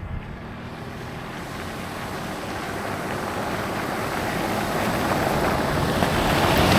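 A vehicle driving on a slimy gravel trail with its tyres aired down: a steady rush of engine, tyre and wind noise that grows steadily louder as it picks up speed.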